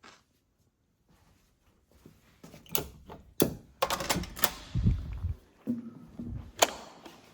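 Hard objects being handled: a quick series of sharp clicks and knocks, with a couple of duller thumps near the middle.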